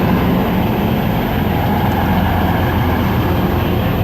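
Class 185 Desiro diesel multiple unit, two units coupled, running past on the track. A steady, loud mix of engine noise and wheel-on-rail noise.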